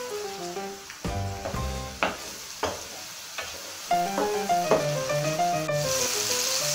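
Sofrito of onion, pepper and grated tomato sizzling in oil in an enamelled steel paella pan, stirred by a wooden spoon, with a few sharp clicks along the way. Background music with a stepping melody plays over it.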